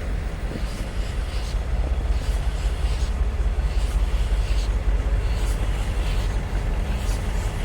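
A train running, with a steady deep rumble and a faint beat repeating above it about once a second.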